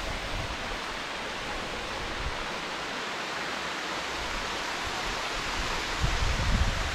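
Steady rushing of falling water from a rainforest waterfall, an even hiss with no break. A low rumble on the microphone builds near the end.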